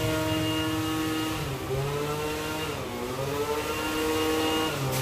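Small electric motor, most likely a power drill driving a sheet metal screw. It runs at a steady pitch at first, then about a second and a half in the pitch dips and rises several times as the speed changes under the trigger and the load.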